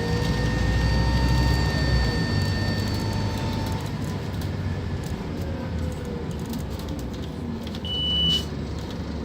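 Scania K230UB Omnilink bus's five-cylinder diesel engine running, its low drone easing off about four seconds in. A short high beep sounds near the end.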